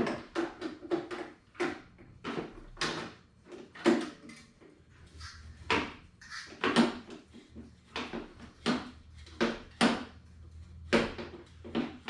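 Metal parts of a Yamaha 250 motorcycle's muffler being worked together by hand: an irregular series of short, sharp metallic knocks and clacks, one or two a second.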